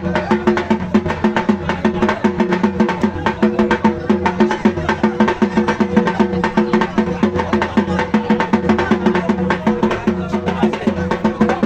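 Fast, driving percussion music: rapid, evenly repeating drum and wood-block-like strokes over steady held tones, loud and unbroken.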